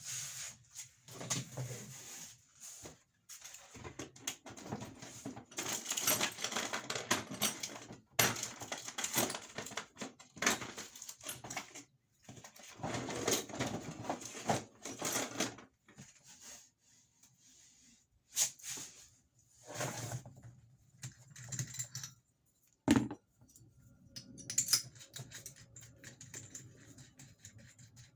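Clattering and rustling of plumbing parts and tools being handled, with small clicks throughout and one sharp knock about 23 seconds in.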